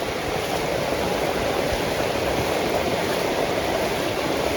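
Heavy rain falling steadily, with water running: a dense, even rushing hiss.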